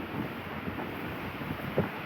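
Wind buffeting the microphone over a steady hiss of rain on a street, with soft irregular knocks.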